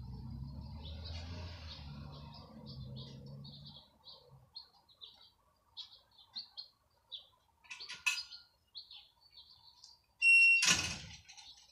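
Small birds chirping repeatedly in short high notes. A low hum underlies the first four seconds and then fades out, and near the end a short high squeak is followed by a loud, sudden noise, the loudest sound here.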